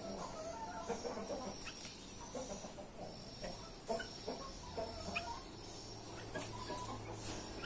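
Chickens clucking in short, low notes, with scattered light clicks and a thin steady high tone underneath.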